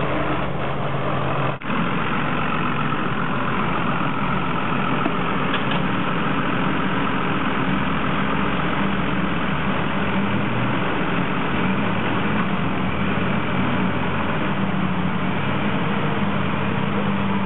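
Heavy diesel machinery engine running steadily, with a low hum that shifts slightly in pitch, from the tractor or loading shovel working on the stump. A momentary break in the sound about a second and a half in.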